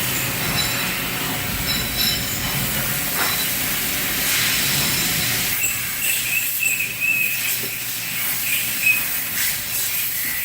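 Haas VF-2SS CNC vertical mill running, a steady hiss with thin high whines over it; about halfway through the whine settles to a lower pitch.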